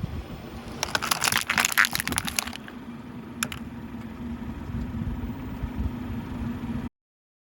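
Small lamp cups crunching and cracking under a car tyre for about two seconds, followed by one more sharp crack, over the car's engine running steadily. The sound cuts off suddenly near the end.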